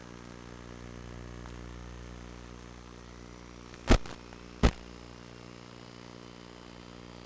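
FPV drone's motors and propellers running with a steady hum. Two sharp knocks come close together about four seconds in and are the loudest sounds.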